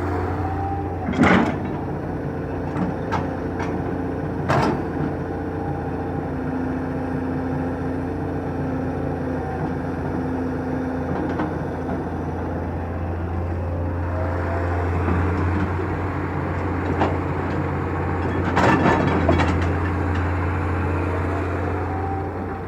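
Excavator's diesel engine running steadily with a deep hum, and sharp metallic clanks a little after a second in, again about four and a half seconds in, and in a quick cluster near the end.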